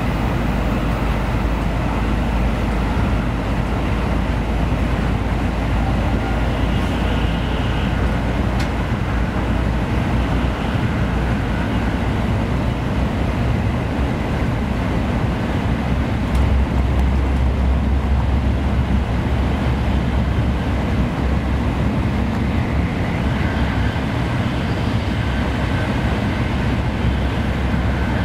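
Tokaido Shinkansen train running at high speed, heard from inside the passenger cabin: a steady deep rumble with a rushing noise over it. The low rumble swells for a few seconds a little past halfway.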